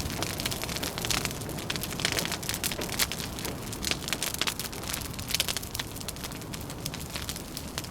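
Wood fire crackling with many small irregular pops, over a steady low rumble of wind.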